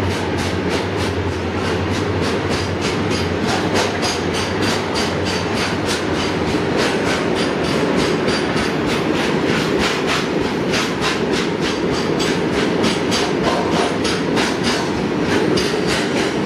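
Loaded BOXN open freight wagons rolling past, their wheels clicking and clattering over the track in a steady, quick, repeating rhythm under a constant rumble.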